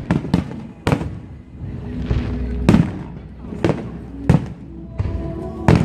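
Fireworks shells bursting aerially, about six sharp bangs at uneven intervals with rumbling between them. Music plays underneath.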